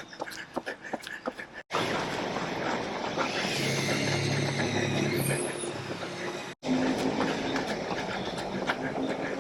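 Steady rumble of a passing vehicle, with low steady tones and a whine that rises and falls, between two stretches of a runner's rhythmic footsteps. The footsteps run up to an abrupt cut about two seconds in and resume after another cut near seven seconds.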